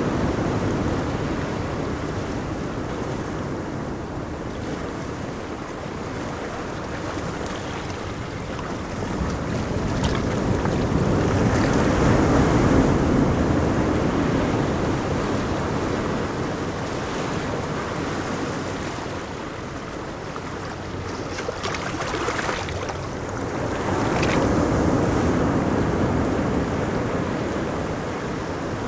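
Ocean waves breaking and washing on a beach: a steady surf roar that swells with each wave, loudest around the middle and again near the end, with some wind on the microphone.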